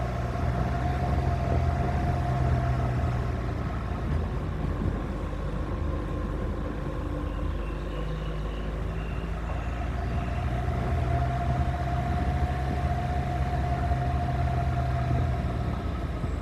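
Suzuki Grand Vitara SUV's engine running as it drives on a gravel road, heard from its roof with steady tyre and road noise. The engine note drops back for a few seconds in the middle, then picks up again.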